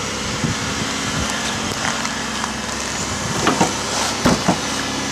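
2008 Pontiac Grand Prix engine idling steadily just after a cold start in sub-zero cold, with a few sharp clicks or knocks a little past halfway.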